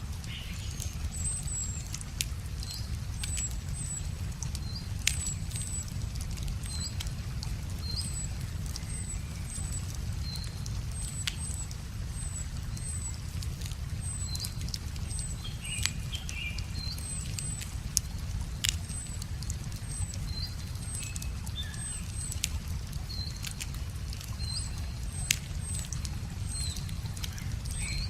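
Wood fire crackling with sharp, scattered pops, while a songbird repeats a short high chirp about once a second over a steady low rumble.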